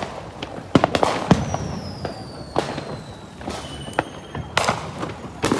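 Consumer fireworks going off: a run of sharp bangs and pops, with a thin whistle that falls slowly in pitch through the middle.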